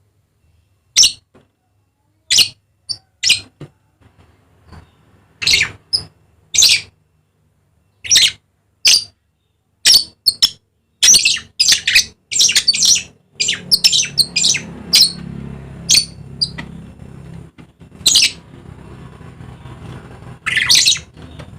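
Dusky lory giving short, shrill calls, one every second or so at first, then several in quick succession in the middle. A low rumble runs under the calls through the second half.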